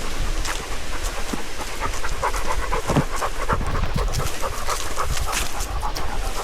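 An old, overweight dog panting on a walk, with irregular short crunches and clicks alongside.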